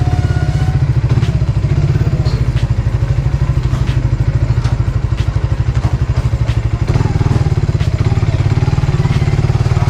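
Suzuki Raider 150 Fi's single-cylinder four-stroke engine running at low revs as the bike rolls slowly. Its exhaust makes a steady, rapid putter.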